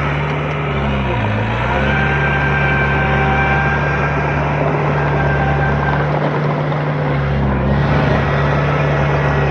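Heavy diesel engine of earthmoving machinery running steadily. Its pitch dips briefly about a second in, and again later on.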